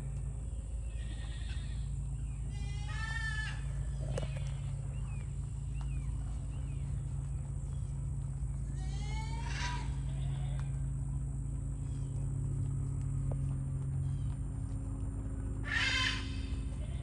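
An animal calling three times, roughly six seconds apart, each a short wavering cry that falls in pitch; the last is the loudest. A steady low hum runs underneath.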